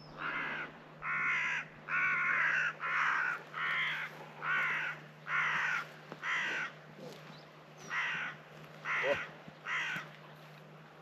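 A crow cawing over and over, about eleven caws a little under a second apart, with a short pause about seven seconds in. A faint steady low hum lies underneath.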